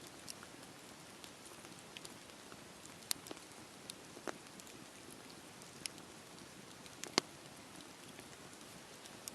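Campfire burning: a soft steady hiss with scattered sharp crackles and pops at irregular moments, the loudest pop about seven seconds in.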